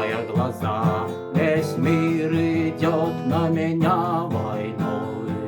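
Strummed acoustic guitar with a voice singing long, wavering held notes over it.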